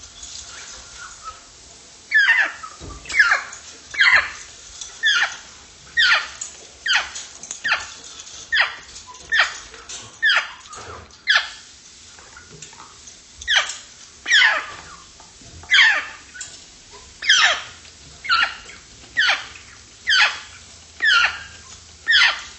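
Grey parrot giving a long series of short falling whistle-like calls, about one a second, starting about two seconds in with a brief pause near the middle.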